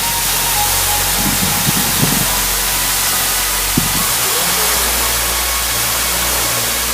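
Waterfall rushing: a loud, steady hiss of falling water that starts abruptly, with a few faint low knocks about a second in and near the middle.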